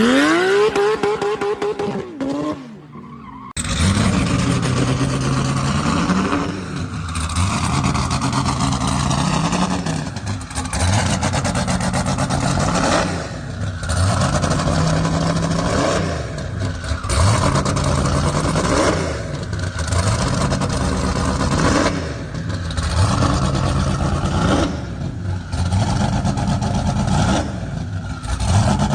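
A high-performance car engine accelerating hard: it revs briefly, cuts out, then pulls again with its pitch climbing and dropping back about every three seconds as it shifts through gears.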